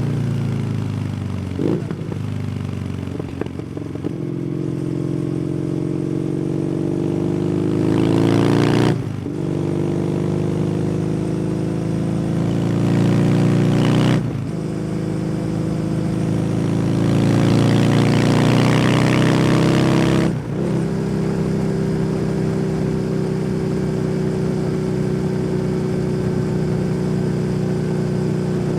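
Kawasaki W800's air-cooled parallel-twin engine through an SC Project exhaust, heard from the rider's seat. It eases off at first, then pulls hard, with the pitch rising and dropping at three upshifts about 9, 14 and 20 seconds in. After the last shift it settles into a steady cruise, with wind rushing over the microphone at speed.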